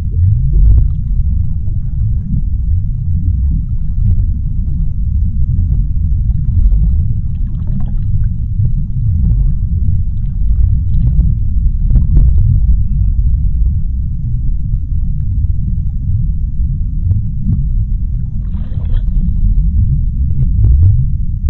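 Deep-sea underwater ambience: a steady low rumble with faint scattered clicks, and a brief brighter wash of noise about nineteen seconds in.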